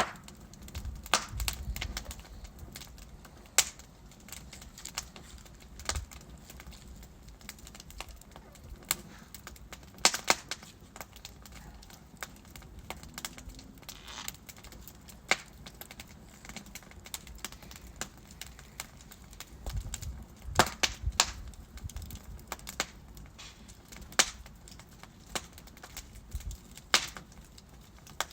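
Wood fire in a fireplace: burning logs crackling, with irregular sharp pops over a low steady hiss.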